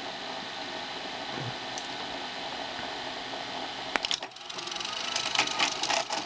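Panasonic NV366 VHS deck mechanism running with a steady motor whir, a sharp click about four seconds in, then a run of louder clicks and rattles as it strains to finish loading the tape. The worn belt slips and cannot give the last bit of force needed to engage the pinch roller, so the belt needs changing.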